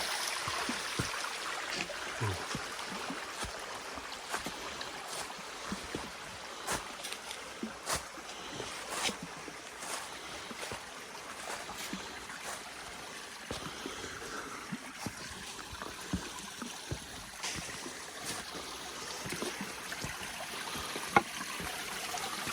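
Shallow creek running over bedrock, a steady rush, with irregular splashes and knocks as boots wade and step on the slippery stones.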